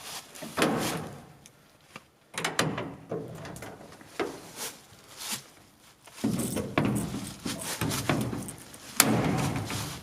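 Big bolt cutters working at a heavy lock chain: repeated clanks and scrapes of metal, with a sharp crack near the end as the cutters get through the link.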